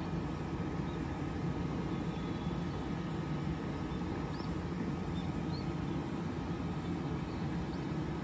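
521 series electric train standing at the platform, its onboard equipment humming steadily with a low, even drone. A few faint high chirps sound over it.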